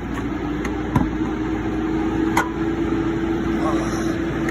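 A steady mechanical hum from the running Mitsubishi Eclipse Cross, ending abruptly near the end. Sharp clicks and knocks come about a second in, in the middle and at the close, as the stiff hood latch and release are worked.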